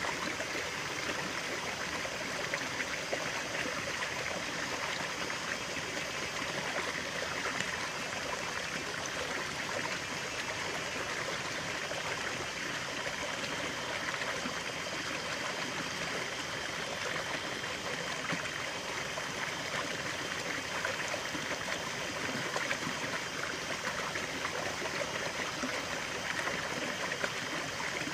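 Stream of running water babbling and trickling steadily, with no pauses or changes.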